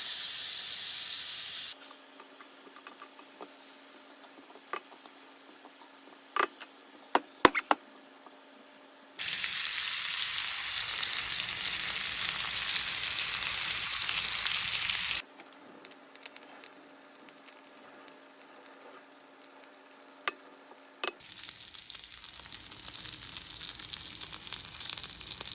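Food sizzling in a frying pan, a steady hiss that swells loud for several seconds at a time and drops quieter between, with a few sharp clicks in the quieter stretches.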